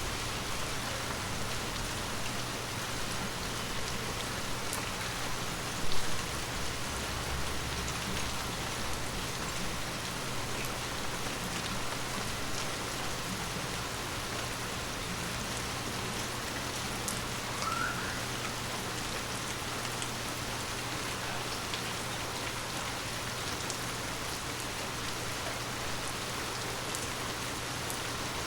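Steady rain falling on forest leaves, a soft continuous patter with scattered individual drips. One sudden louder thump comes about six seconds in, and a brief rising chirp about eighteen seconds in.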